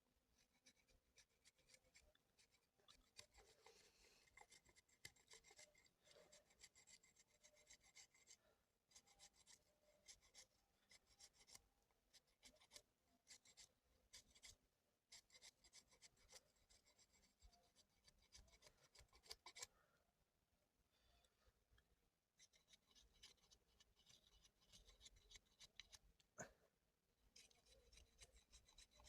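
Faint scratching and rubbing in quick irregular strokes, with a few short pauses, over near silence.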